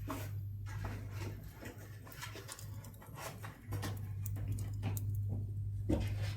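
Pine offcuts burning in a wood stove, crackling with scattered sharp pops at irregular intervals. Under it runs a steady low hum that cuts out briefly midway.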